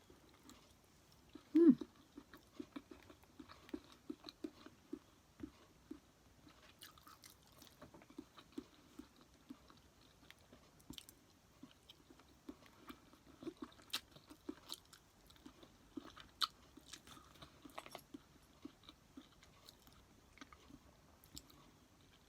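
Close-miked chewing of sushi, with wet mouth clicks and smacks coming irregularly several times a second. There is one louder short mouth sound about two seconds in.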